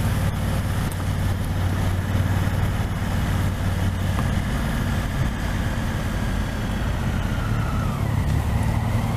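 Motorcycle engine running steadily at cruising speed, heard from the moving bike with wind and road noise.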